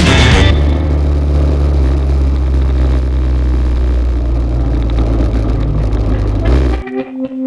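A motor vehicle engine running at a steady, unchanging pitch, over a haze of noise. It breaks off suddenly near the end, and music comes back.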